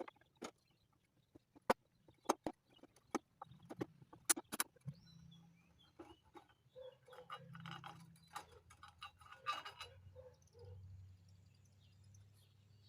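Sharp metallic clicks and knocks of hand tools and parts being worked on a small mower engine's air-cleaner housing, followed by a few seconds of softer rattling and handling sounds.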